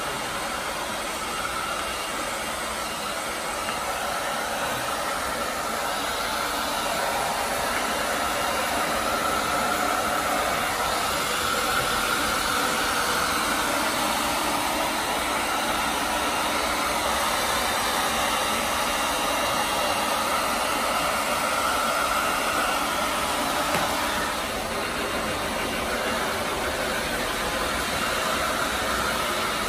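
Pet grooming dryer blowing steadily, a continuous whooshing rush of air, briefly dipping in level a little past three-quarters of the way through.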